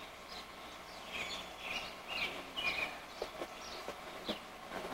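Birds chirping: a string of short, high chirps, each dropping slightly in pitch, repeating about twice a second.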